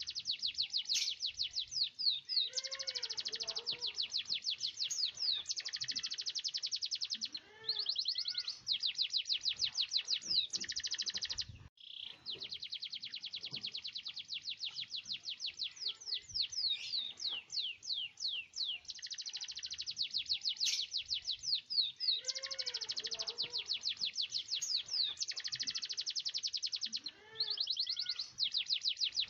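Domestic canary singing an energetic song of long, fast, high-pitched rolling trills, mixed with lower swooping notes. There is a brief pause about twelve seconds in.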